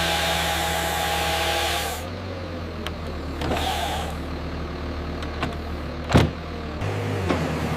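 Heavy logging machine running: a steady engine drone with a high whine and hiss that cuts off abruptly about two seconds in, leaving a lower drone with scattered knocks and one sharp, loud crack about six seconds in.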